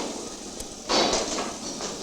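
Levers of a manual Armstrong mechanical interlocking frame being thrown by hand: a clank right at the start and a longer clattering burst about a second in.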